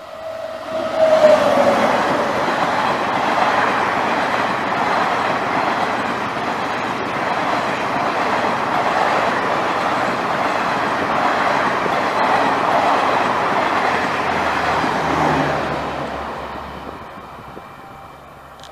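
Express train passing at speed: the electric locomotive's horn sounds as it comes up and drops in pitch about a second in as it goes by, followed by the steady rush and rattle of the Garib Rath's ICF coaches running past. The noise fades away a couple of seconds before the end.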